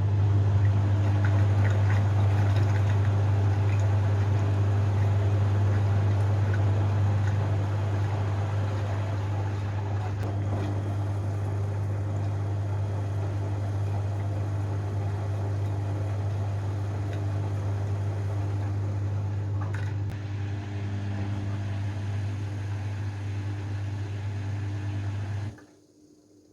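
Washing machine running with a steady low hum, which cuts off suddenly near the end.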